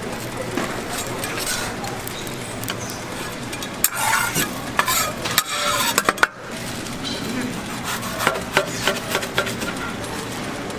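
Food sizzling on a flat street-toast griddle, with a metal spatula scraping and tapping on it. A cluster of louder clattering scrapes comes about midway.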